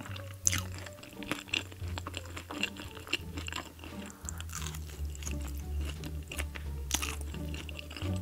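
Close-miked chewing of a mouthful of sauce-covered french fries topped with cheese and caramelized onions, with many short wet mouth clicks. Background music with a steady low bass line runs underneath.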